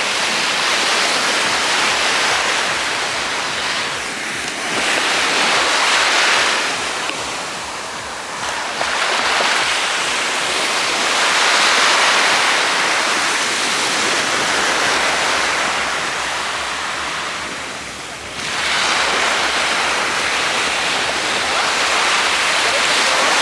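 Ocean surf breaking and washing up the beach in a loud steady rush that swells and fades with each wave, with one wave crashing in sharply near the end.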